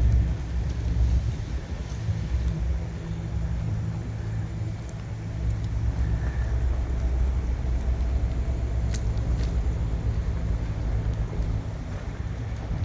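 Diesel semi-truck engine idling, a steady low rumble.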